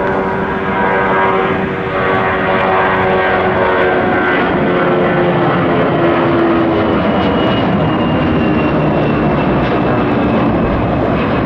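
Jet airliner's engines at takeoff power on the departure roll from the runway, a loud steady rush with several whining tones that slowly fall in pitch.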